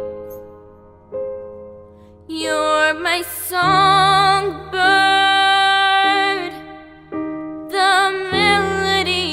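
A slow, gentle song: a girl's singing voice holding long notes with vibrato over soft piano chords, the voice coming in a couple of seconds in.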